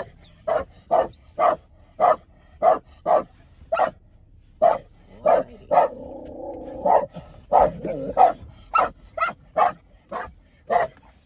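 Dog barking repeatedly, about two barks a second, with a short pause about four seconds in and one longer held cry about six seconds in.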